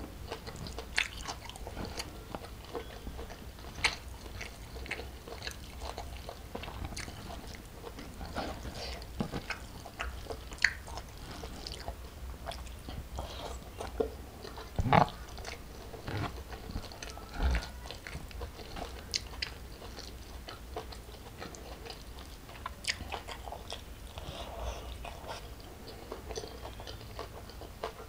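Close-miked chewing of a mouthful of rice, shrimp, sambal and raw vegetables, a steady run of short wet clicks and crunches, with a few louder bites about halfway through.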